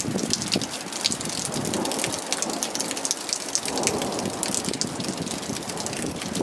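Heavy rain falling on wet, puddled asphalt: a dense steady hiss with many sharp drop splashes ticking over it.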